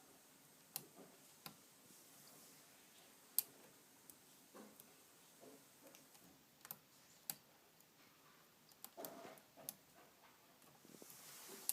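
Faint, irregular sharp clicks from a Shimano Sora rear derailleur and cassette as the drivetrain turns, several coming in pairs about half a second apart. The clicking is the sign of slightly misadjusted derailleur limit screws.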